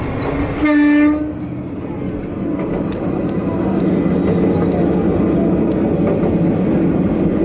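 Matsuura Railway diesel railcar heard from inside the carriage: one short, loud horn blast about half a second in, then the steady running rumble of the engine and wheels on the rails.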